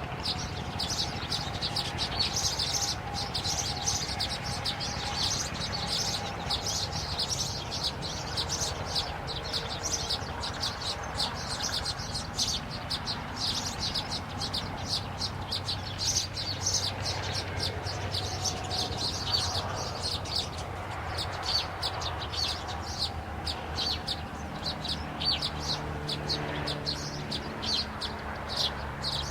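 Birds chirping: a rapid, continuous run of short, high chirps, over a low steady hum.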